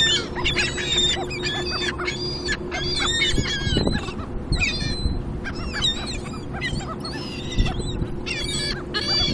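A flock of seagulls calling constantly, many short high calls overlapping one another, over a steady low hum.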